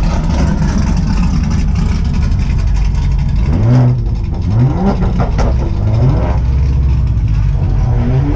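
Car engine running with a steady low drone, then revving up several times from about halfway through, the pitch rising and falling back with each rev.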